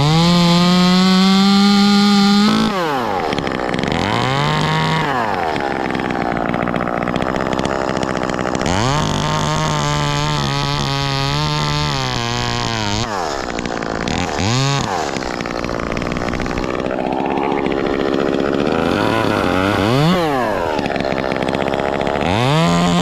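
Ported Echo CS-2511T top-handle chainsaw running. It is held at full throttle for a couple of seconds at the start and again for about four seconds in the middle, with quick throttle blips and drops back toward idle in between.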